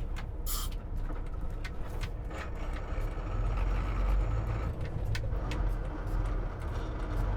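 Semi truck's diesel engine running low and steady as it slows, swelling around the middle, with a short hiss of air from the brakes about half a second in and a few scattered clicks and knocks.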